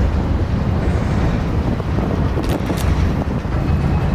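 Wind buffeting the microphone over a steady low rumble, with two brief high squeaks about two and a half seconds in.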